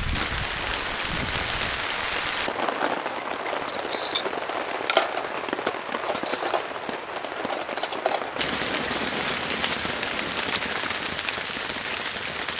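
Rain falling steadily and pattering on a surface, with scattered sharper drop hits a few seconds in.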